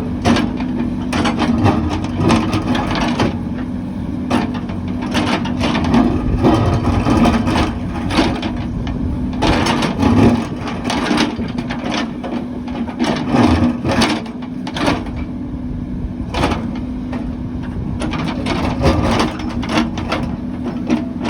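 Diesel engine of heavy construction machinery running steadily, with frequent irregular knocks and clanks of metal and material over it.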